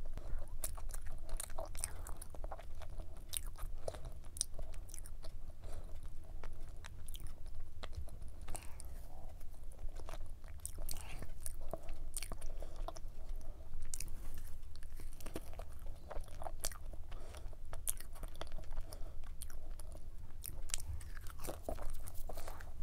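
Close-miked chewing of a flaky Lotus-cream cube pie, the laminated pastry crackling with many small irregular crisp clicks.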